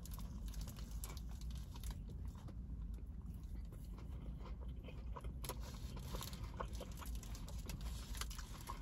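A person biting into a cheeseburger and chewing it, with small wet mouth clicks and smacks, denser near the end. A faint steady low hum lies underneath.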